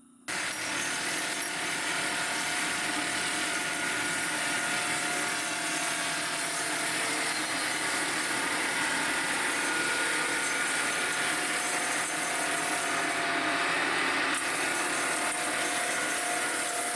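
Sawmill running and sawing through a log, a steady loud machine-and-blade noise that starts abruptly just after the beginning.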